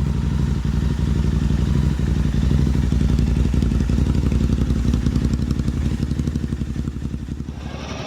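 Royal Enfield Himalayan 452's single-cylinder engine running at a steady, low speed while riding, its firing pulses easing off slightly near the end.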